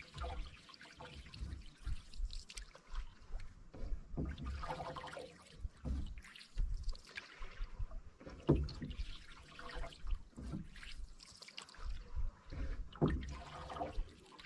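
Canoe paddle strokes through calm water, a swish about every four seconds, with water trickling and dripping off the blade between strokes.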